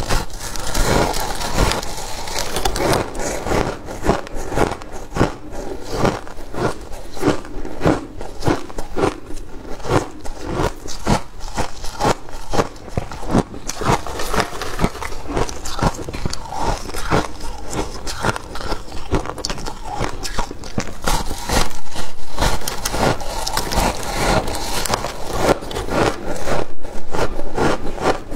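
Freezer frost being bitten and chewed close to the microphone: a dense run of crisp crunches and crackles that goes on without a break.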